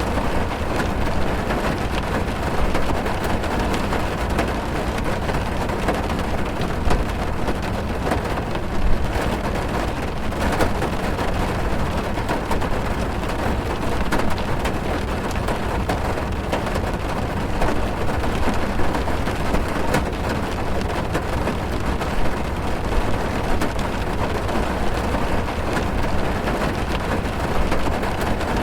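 Heavy rain falling on a car's roof and windows, heard from inside the car: a dense, steady patter with scattered sharper drops.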